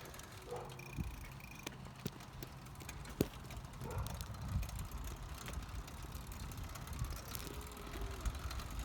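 Bicycle being ridden: a low rumble of tyres and road with a few sharp clicks, about one a second, in the first few seconds.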